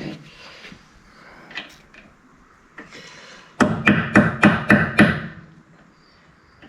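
Metal being struck: faint clicks and taps, then about halfway through a quick run of six or seven sharp hammer blows in under two seconds, as a seized grub screw on a winch bearing is worked loose.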